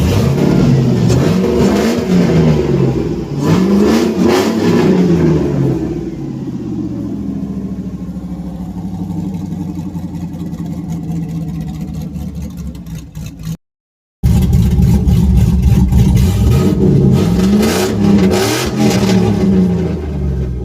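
Cammed engine of a 2000 Chevrolet S10 Blazer ZR2 through a full stainless exhaust with an X-pipe, revved up and down several times in quick blips. It then settles to a steadier idle for several seconds. After a brief dropout it is revved again repeatedly.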